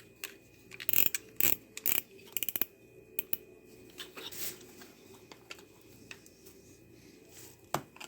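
A knife cutting the small teeth off a Shark robot vacuum's drive wheel: sharp clicks and snaps, with a quick run of five or six about two seconds in.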